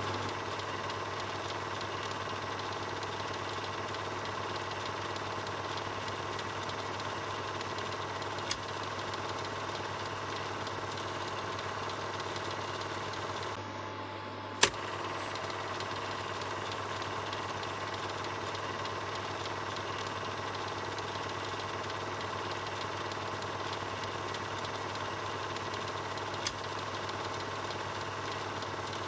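Film projector running with a steady rapid mechanical clatter over a low hum. A few sharp clicks cut through it, the loudest about halfway.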